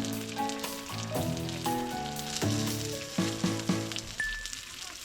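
Food sizzling as it fries in a pan, under background music with a melody of short notes.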